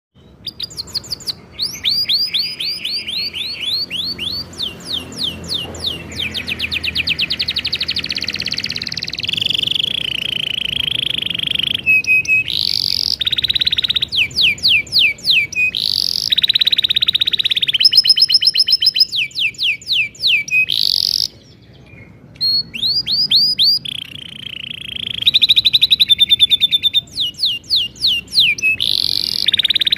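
Domestic canary singing a long, vigorous song of fast repeated notes and rolling trills, broken by one brief pause about two-thirds of the way through before it starts again.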